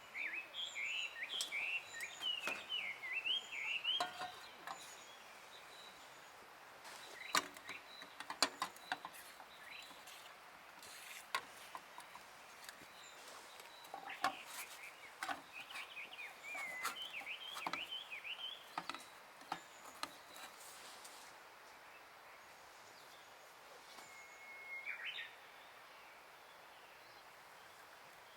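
A songbird singing in runs of quick, varied chirping phrases, at the start and again about halfway through. Scattered sharp clicks and knocks fall in between, and a single short whistled note comes near the end.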